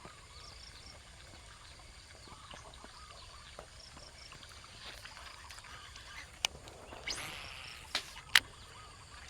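Quiet outdoor ambience with faint, repeated chirping calls and a few sharp clicks, the loudest about two-thirds of the way through and near the end, with a brief rustle just before them.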